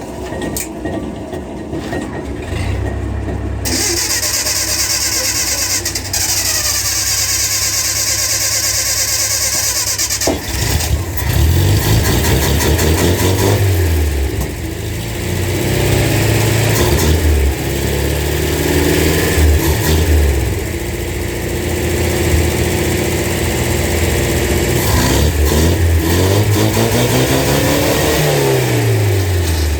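A vehicle engine running. From about ten seconds in, its pitch rises and falls again and again as it revs up and eases off, over a steady hiss.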